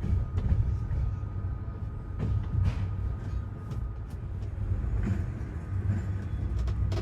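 Passenger train running along the track: a steady low rumble with a faint steady whine and a few scattered sharp clicks and knocks from the wheels and coach.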